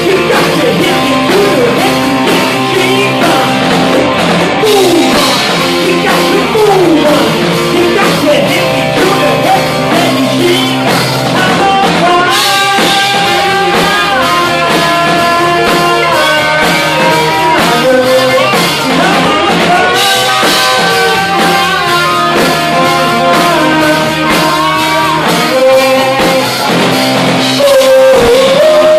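Rock band playing live: a singer over guitar and a drum kit, loud and steady.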